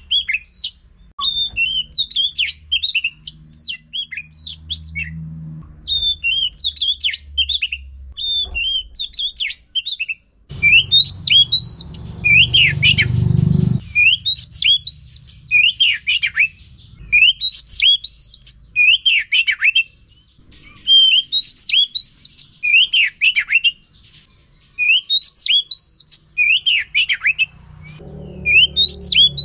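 Oriental magpie-robin (kacer) singing: fast phrases of sweeping, whistled notes, each repeated several times, in bouts separated by short pauses. A low hum rises under the song for a few seconds about a third of the way in and again near the end.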